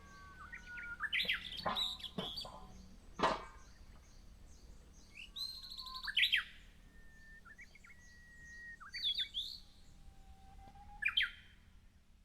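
Wild birds singing, several overlapping songs of whistled notes, short trills and falling chirps, with a brief sharp sound about three seconds in.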